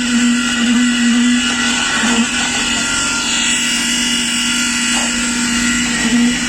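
Machinery running steadily with a constant high-pitched hum.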